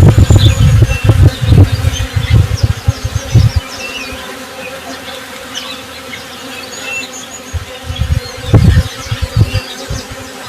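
Honey bees buzzing close by, loud and fluttering for the first three and a half seconds and again near the end, over a steady faint hum. Small birds chirp faintly in the background.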